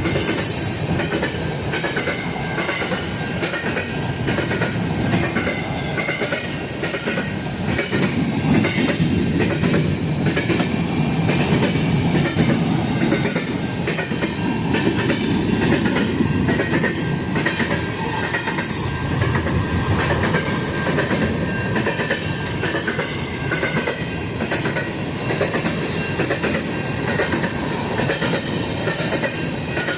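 A train rolling past, its wheels clattering steadily over the rail joints.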